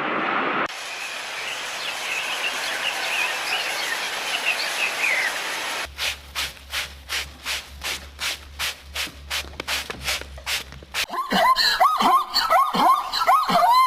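Rhythmic rubbing or scraping, about three strokes a second, then in the last few seconds a dog whimpering and whining over and over in short, falling cries.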